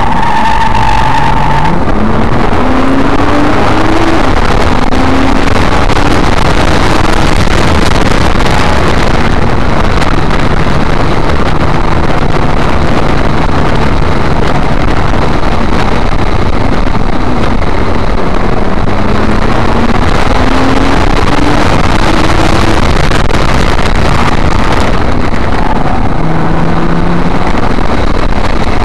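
Nissan GT-R's twin-turbo V6 heard from inside the cabin on track. It climbs in pitch under hard acceleration twice in the first seven seconds, holds steady through the middle, and pulls up again about twenty seconds in, over a loud steady rush of road noise.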